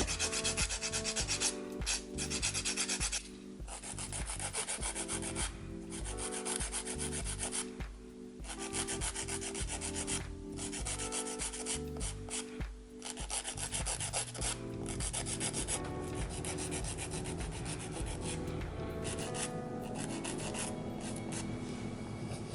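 Nail file rasping back and forth across the tips of soft gel press-on nail tips, in quick strokes broken by brief pauses every few seconds, straightening the uneven free edges.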